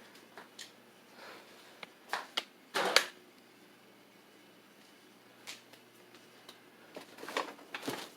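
A few sharp clicks and knocks: a cluster about two to three seconds in, the loudest near three seconds, and another cluster near the end, over a faint steady hum.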